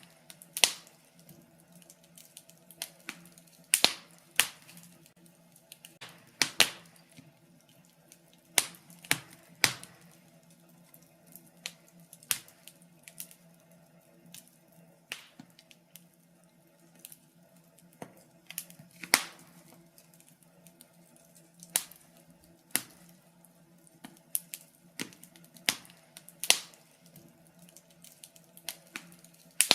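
Wood fire in a fireplace crackling: irregular sharp pops and snaps at uneven intervals, some much louder than others, over a faint steady low hum.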